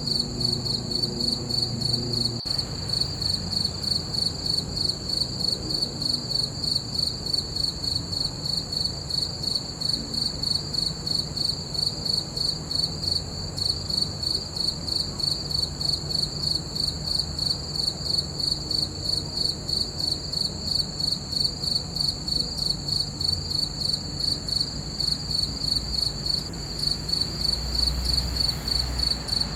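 Crickets chirping in a steady, even rhythm of about three chirps a second, with a faint low hum underneath.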